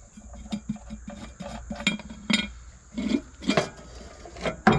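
Metal clinking and clunking as the air cleaner is taken off a Ford 352 FE V8: a run of light clicks with several louder knocks of sheet metal.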